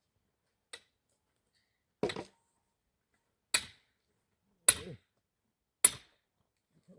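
Firewood being chopped: a light tap, then four sharp strikes about one and a quarter seconds apart, each with a short ringing tail.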